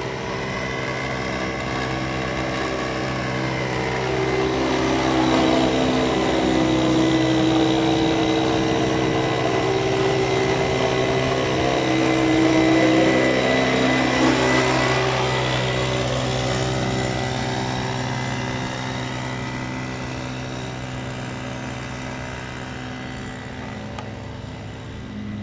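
Mini motorcycle's small engine running steadily, growing louder as it comes near about five seconds in and again around thirteen seconds in, then fading as it moves away.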